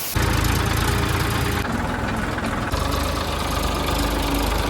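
Massey Ferguson 241 DI tractor's three-cylinder diesel engine running steadily with a low, even throb. It cuts in suddenly at the start and stops abruptly at the end.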